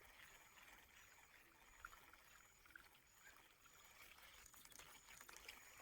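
Near silence: faint outdoor ambience with a few soft ticks and a faint high-pitched chirp repeating under a second apart.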